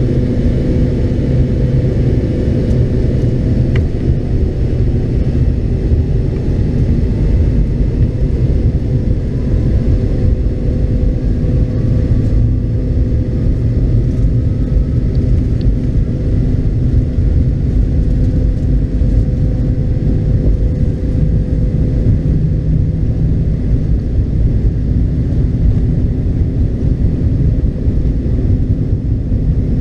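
Steady cabin rumble of a McDonnell Douglas MD-82 from a window seat: its rear-mounted Pratt & Whitney JT8D turbofans humming at constant power under a heavy low roar. A faint rising whine comes in about a third of the way through and fades.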